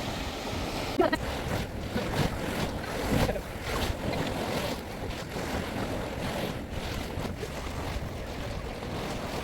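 Wind gusting across the microphone over the steady wash of surf on a beach.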